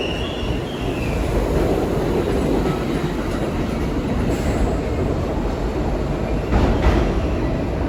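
New York City subway train running on the rails with a steady rumble. A wavering wheel squeal fades out about a second in, and two sharp knocks come about six and a half seconds in.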